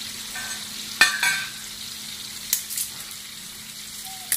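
Whole spices sizzling in hot melted butter in a steel kadai while a steel spoon stirs them, with a few sharp clinks of the spoon against the pan, the loudest about a second in.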